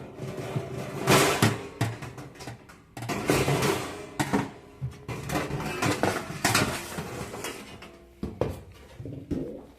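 Sheet-metal back panel of a hot air oven being handled and taken off: irregular metallic clanks, rattles and scraping, loudest about a second in and again around three seconds in, sparser near the end.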